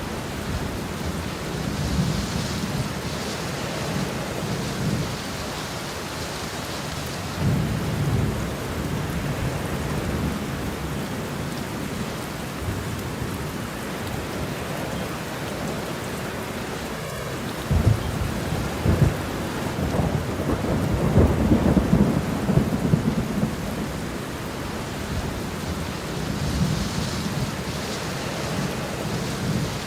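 Steady rain with thunder rolling in low rumbles every few seconds. Past the middle, a louder thunderclap breaks suddenly and rumbles on for several seconds.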